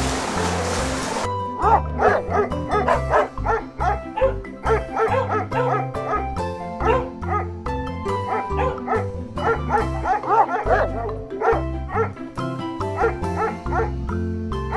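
A boxer dog vocalizing repeatedly with its head raised, over background music with a steady bass line. About a second in, a wash of water noise stops before the dog is heard.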